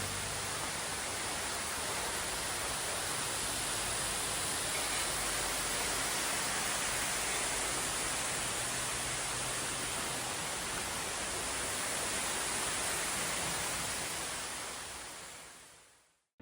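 Steady, even rushing noise that fades out smoothly near the end.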